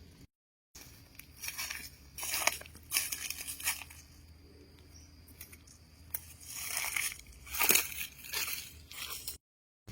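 Irregular rustling and crunching, a string of short crackles and scrapes, broken by a cut to dead silence just after the start and again near the end.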